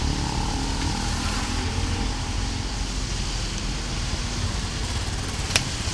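Steady rushing of floodwater running down the street, with a motor vehicle's engine rumbling underneath. A single sharp click comes near the end.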